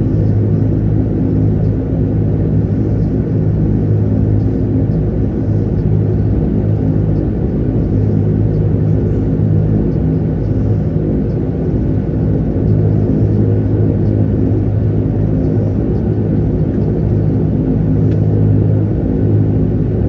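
De Havilland Canada Dash 8-300 turboprop's engines and propellers running with a steady low drone.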